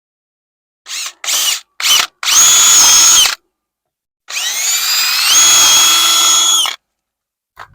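Power drill run in three short trigger bursts, then two longer runs. In the last run the motor's pitch climbs and then holds steady.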